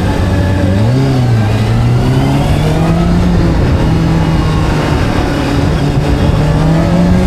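Motorcycle engine pulling under acceleration: its pitch climbs from about a second in, drops briefly at a gear change a little past halfway, then climbs again.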